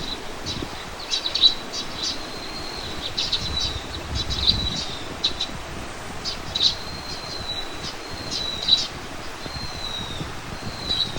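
Small birds calling: clusters of short, high chirps every second or two, with thin whistled notes that slide slightly downward. A low rumble runs underneath.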